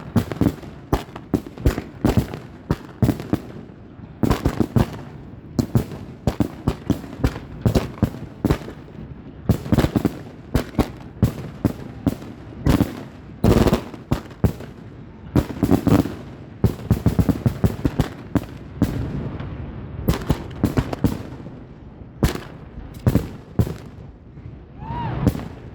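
Consumer fireworks set off in a rapid barrage, with sharp bangs and crackles coming several a second and echoing. Near the end there is a short rising whistle.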